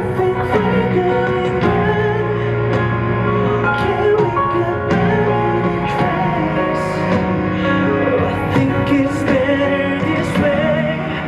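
Loud live pop music over a PA with a sung vocal line and a steady beat.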